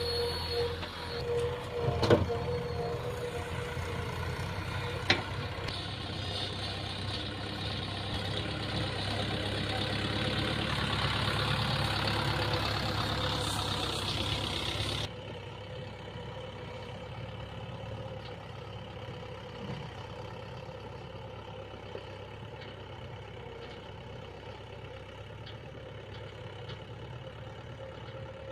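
Diesel engine of a backhoe loader and tractors running at a work site, with two sharp knocks in the first five seconds. The engine noise swells, then drops suddenly to a quieter steady running about halfway through.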